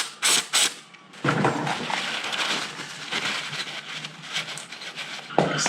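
Aerosol can of carb cleaner spraying: a couple of short blasts, then one long spray of about four seconds.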